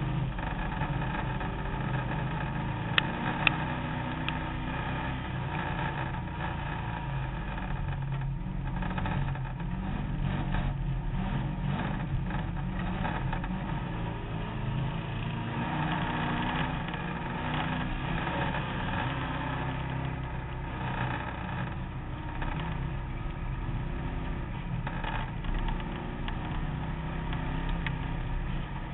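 Competition car's engine running under way, heard from inside the stripped, roll-caged cabin over a constant rush of noise. Two sharp knocks come about three seconds in.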